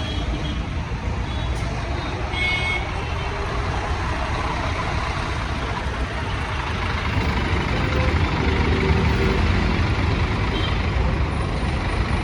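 Scania coach's diesel engine running as the bus pulls away, growing louder about two thirds of the way through as it passes close.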